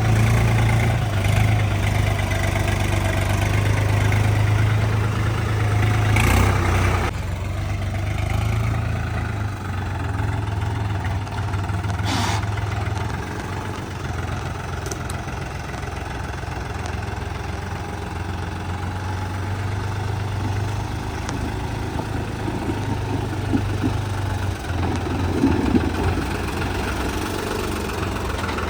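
New Holland 4710 4WD tractor's diesel engine running steadily while pulling a loaded trolley. It is louder for the first several seconds, then settles a little lower, with a couple of brief clatters along the way.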